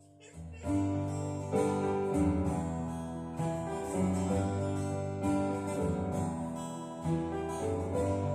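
Acoustic guitars strumming chords in a song's instrumental intro, starting about half a second in.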